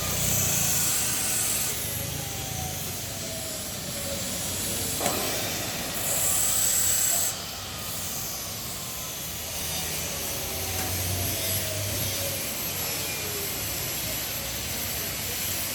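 Steam hissing from a steam boiler's pipework, with a steady background hiss. A louder burst of hiss near the start, and another about six seconds in that cuts off suddenly. There is a sharp click about five seconds in.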